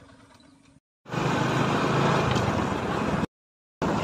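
Motorcycle on the move, its engine under a loud steady rush of wind on the microphone, cut into short pieces with half-second silent gaps; a fainter stretch opens it and stops under a second in.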